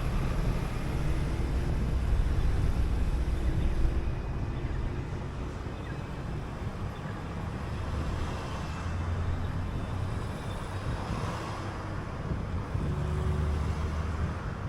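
City bus under way: a low engine drone with road and tyre noise, louder for the first few seconds, then easing and rising again a couple of times as the engine speed changes.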